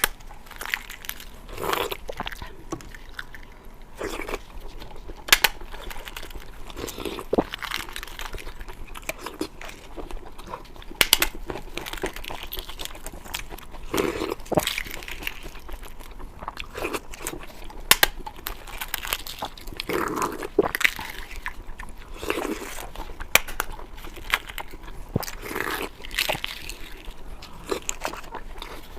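Close-miked eating sounds: irregular biting, crunching and wet chewing of balut (fertilized duck egg), with sharp clicks scattered throughout.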